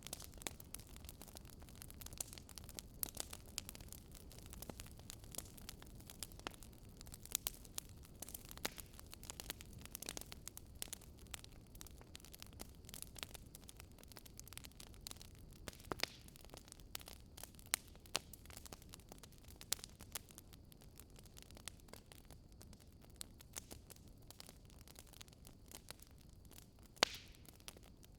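Wood campfire crackling: irregular sharp pops and snaps, several a second, over a soft low rumble of the burning fire.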